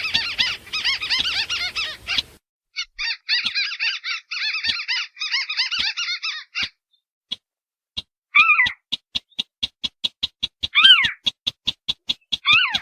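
Lure-call recording of marsh birds, a Sintar beker crake and a white-browed crake, calling over each other. Fast, even ticking runs under most of it. A dense chattering burst comes at the start and a second chattering run follows, then short calls falling in pitch come three times near the end.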